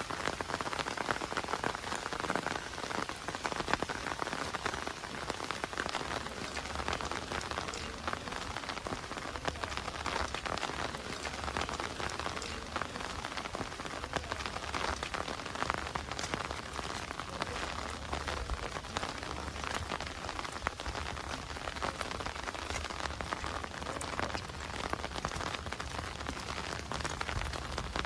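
Heavy rain falling steadily, a dense patter of close drop ticks over an even hiss, with a low steady rumble underneath from about six seconds in.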